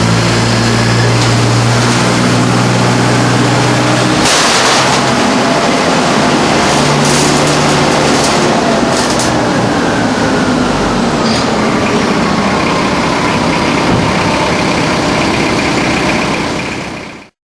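Truck-mounted vacuum collector running at full power, its Kubota turbo-diesel engine and fan drawing air hard through an 8-inch intake pipe. About four seconds in the hum shifts, with loud rushing surges of air, and later a slowly falling whine. The sound drops away suddenly near the end.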